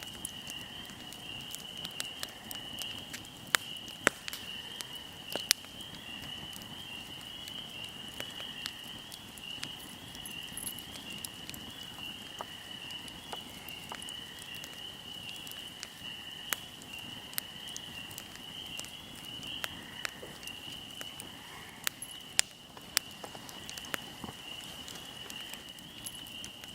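Wood fire burning, with irregular crackles and sharp pops, a few much louder than the rest. A steady high-pitched hum runs underneath.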